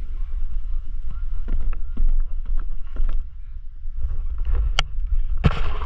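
Wind rumbling on the microphone during a horseback ride, with irregular knocks and clicks from the horse's gait and tack. There is one sharp click about five seconds in and a short noisy burst just after it.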